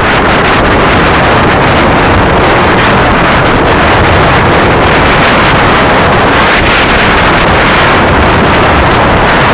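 Loud, steady wind noise on an action camera's microphone while riding, mixed with the running engine of a Kawasaki Ninja 250R parallel-twin sportbike.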